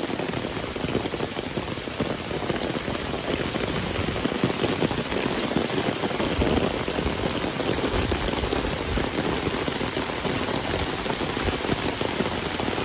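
Heavy rain falling in a downpour: a steady, dense rush of drops.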